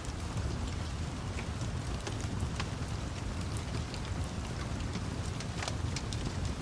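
Steady rain with a low rumble underneath, mixed with scattered sharp pops and crackles of a wood fire.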